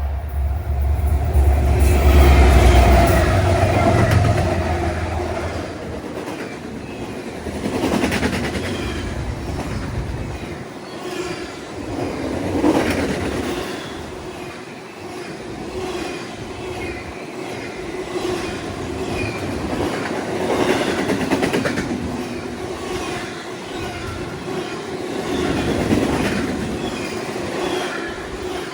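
A train passing close by. A heavy locomotive rumble fills the first few seconds, then the cars roll past with the wheels clacking over the rail joints.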